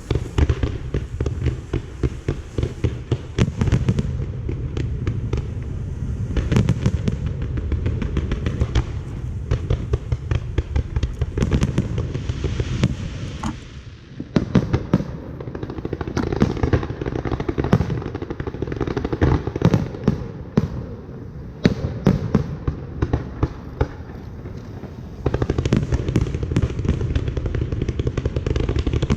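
Fireworks show: a dense, continuous barrage of bangs and crackling that eases briefly about halfway through before building again.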